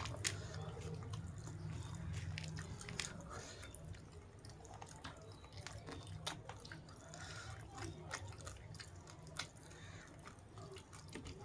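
Close-up eating sounds: irregular chewing and mouth clicks as someone eats a meal of flattened rice, chicken gravy and salad, with a low hum under the first few seconds.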